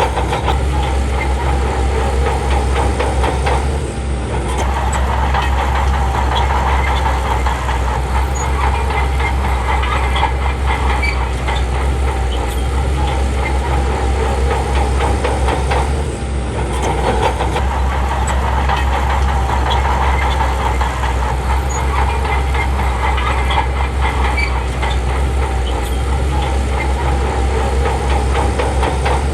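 Shantui bulldozer's diesel engine running steadily under work, with a dense mechanical rattle, briefly dipping about 4 and 16 seconds in.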